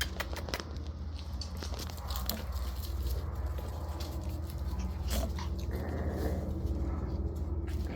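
Shiba Inu puppies at play, chewing and play-biting: irregular small clicks and scuffles over a steady low hum.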